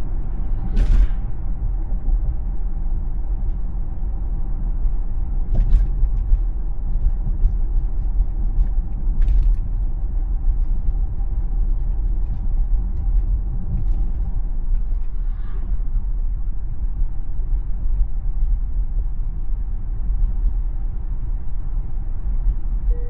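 Tesla electric car on the move: steady low road and tyre rumble with a faint steady whine, and a few sharp clicks or creaks, once about a second in and again around six and nine seconds.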